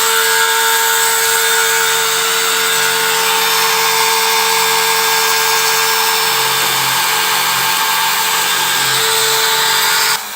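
CNC router spindle running steadily at high speed, a whine with a wide hiss over it, that cuts off suddenly near the end.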